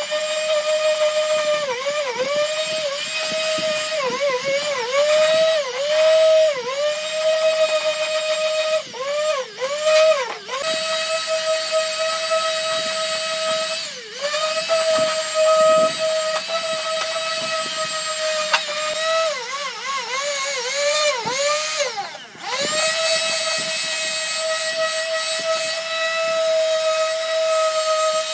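Handheld electric power tool running with a steady high whine. Its pitch sags briefly many times as it is pressed into the work and then recovers, and it stops for a moment twice along the way.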